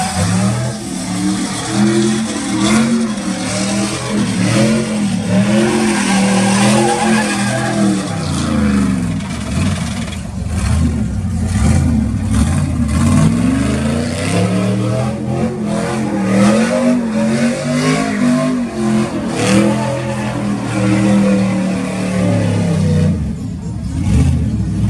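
Truck engine revving up and down over and over, its pitch rising and falling about once a second.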